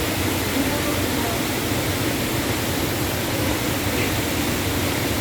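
Wahkeena Falls, a waterfall, rushing steadily.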